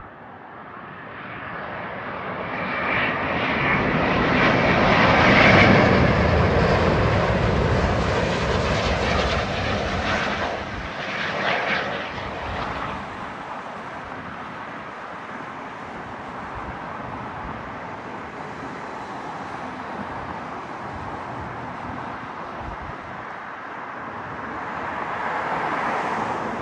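Jet engine noise of an Airbus A350-900 coming in to land, its Rolls-Royce Trent XWB turbofans building to their loudest about five seconds in as it passes. The noise then fades to a steadier, lower rumble.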